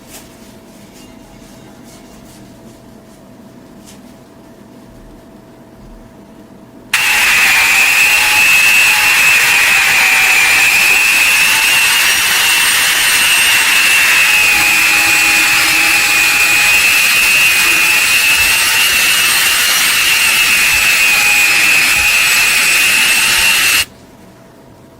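Electric power tool running steadily with a high whine that wavers slightly in pitch. It starts suddenly about seven seconds in and cuts off abruptly near the end. Before it starts there are only faint clicks.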